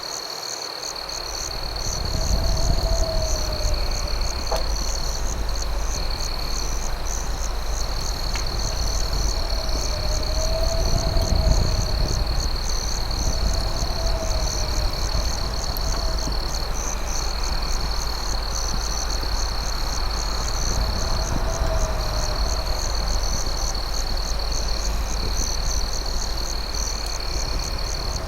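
Night chorus of crickets: a steady high trill and a rapidly pulsing chirp, with a lower warbling call repeating every few seconds. Beneath it runs a low rumble that swells about two seconds in, with an occasional faint pop.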